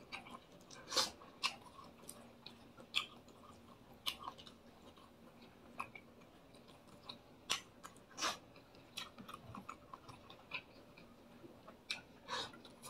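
Close mouth sounds of a person chewing fried fish and rice eaten by hand: soft, irregular smacks and short crunchy clicks, a few every couple of seconds.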